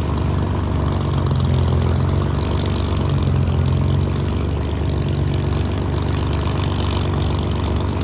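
Piston V12 engine of a Second World War fighter running at low power as it taxis, a steady low drone with propeller noise.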